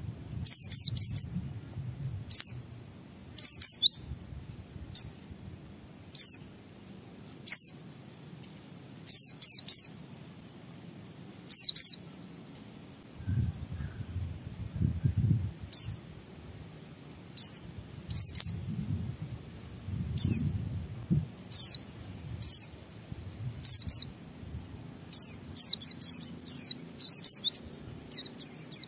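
Pleci (white-eye) in full song: short phrases of high, sharp, quickly falling chirps, repeated every second or two and coming faster near the end. A faint low rumble sits underneath.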